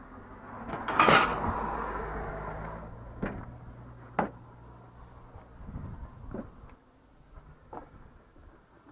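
A vehicle door slammed shut about a second in, then a few lighter knocks and clicks over a low steady hum.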